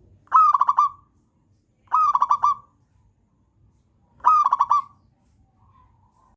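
Zebra dove (perkutut) singing: three phrases about a second and a half apart, each an opening note bending up and then a quick run of short cooing notes.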